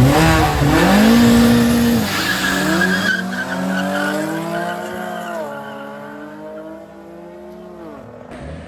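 A drag car's engine at full throttle, launching and accelerating away through the gears. The pitch climbs, then drops sharply at shifts about five and eight seconds in, and the sound fades as the car pulls away.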